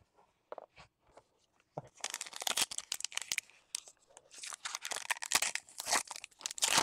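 A foil trading-card pack wrapper being torn open and crinkled by hand. There are a few light clicks at first, then two stretches of dense crackling, about two seconds in and again from about four seconds in to the end.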